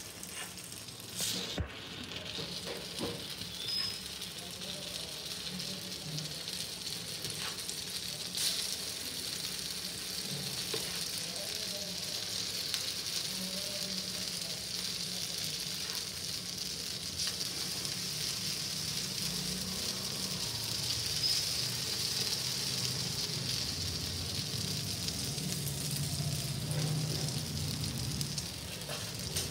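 Paddu batter sizzling as it fries in hot oil in the cavities of a paddu (appe) pan, steady and gradually getting louder. There is a sharp click about one and a half seconds in and another about eight seconds in.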